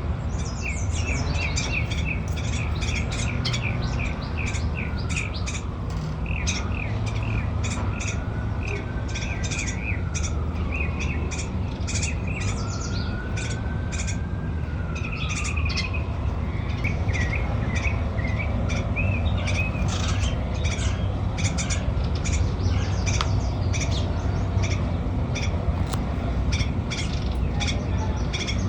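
Small songbirds chirping in rapid short notes, over and over, over a steady low background rumble. A faint tone slowly rises and falls three times in the first half.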